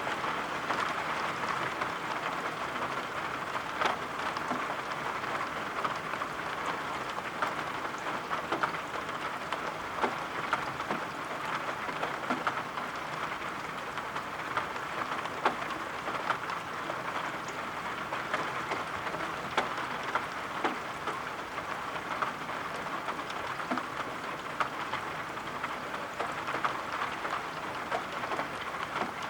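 Steady rain falling, with frequent small, sharp taps of drops scattered through it.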